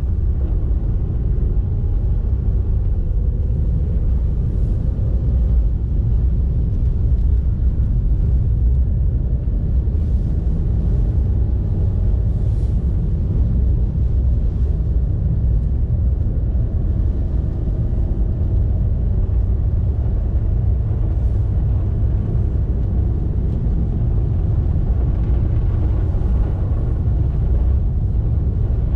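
A car driving: a steady low rumble of engine and road noise that runs on without change.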